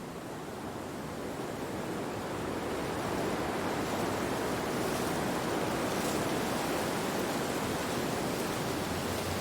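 Steady rushing wind from a nature-sounds recording, fading in over the first three seconds and then holding level.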